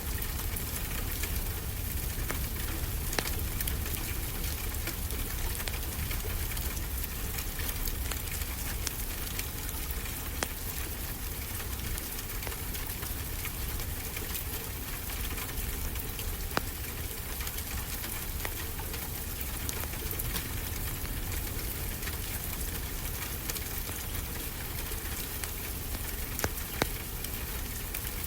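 Wood fire crackling, with scattered sharp pops, over a steady rushing wash and low rumble of ocean waves.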